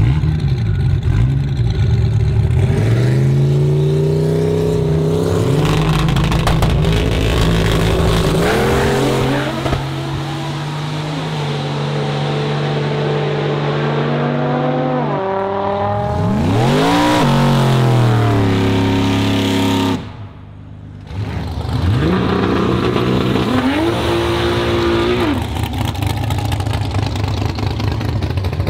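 Cars launching from a standing start and accelerating at full throttle, their engine pitch climbing in steps with drops at each gear change. About halfway through, a car's engine rises and falls as it passes close by. After a brief drop in the sound near two-thirds of the way in, another car accelerates hard through its gears.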